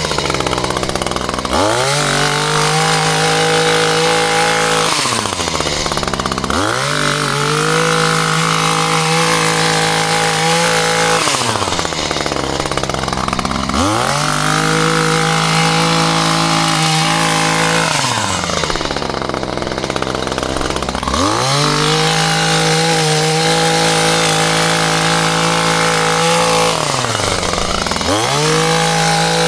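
Two-stroke chainsaw revved to full throttle and held for a few seconds at a time, then dropped back to idle and revved up again, about five times over.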